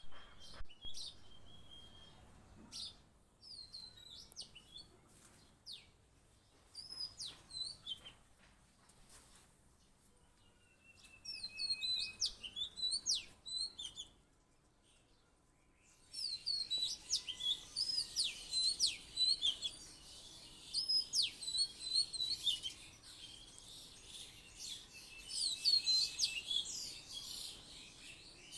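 A small parrot chirping and twittering in quick high-pitched bouts, with a few longer whistles. About halfway through there is a short lull, after which the chirping becomes dense and continuous.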